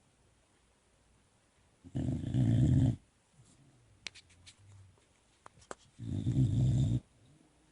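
Boxer puppy snoring: two snores, each about a second long and some four seconds apart, with faint breathing and a few small clicks in between.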